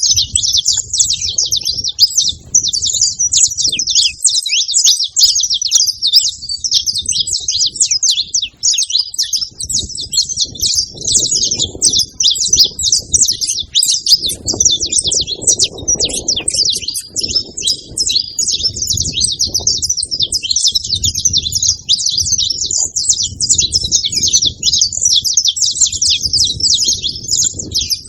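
Saffron finches (canário-da-terra) singing, a dense, unbroken stream of rapid high chirps and trills. A low rumble comes and goes underneath.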